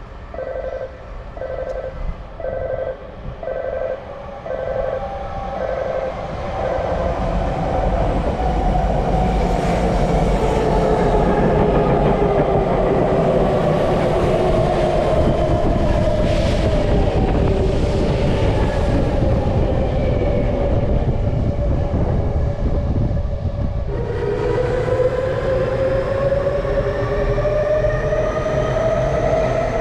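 Tokyu Toyoko Line limited express train passing through the station without stopping. It opens with six or seven evenly spaced beeps; then comes the loud rumble of the train going by, with a motor whine falling in pitch. Near the end a new whine rises in pitch as a train accelerates.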